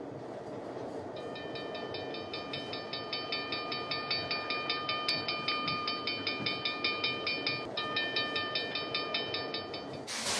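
Cartoon steam train sound effect: the low rumble of the train rolling along the track, joined about a second in by a rhythmic clatter with ringing tones, as the train pulls into a station. A short hiss comes near the end.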